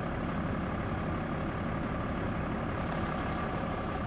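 Tow truck's engine running steadily.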